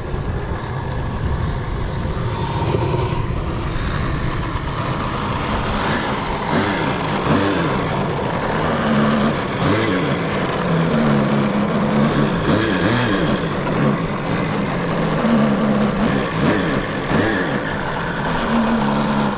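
Radio-controlled model jet running, its engine giving a steady high whine that rises to a peak about four seconds in and then settles back, over a dense rushing rumble.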